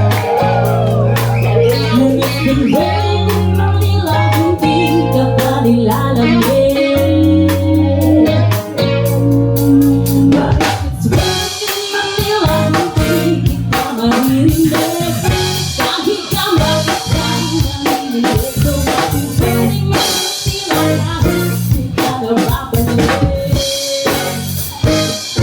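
A band playing a pop song, in a passage without lead vocals: sustained bass chords under melodic lines, with the drum kit growing busier, with snare and bass-drum hits, about ten seconds in.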